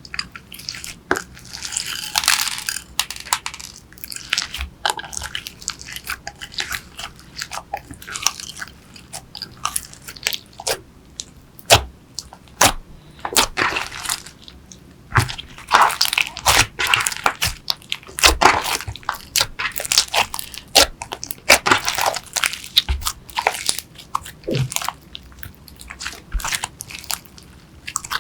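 Hands kneading, squishing and stretching slime: irregular sticky clicks, pops and crackles.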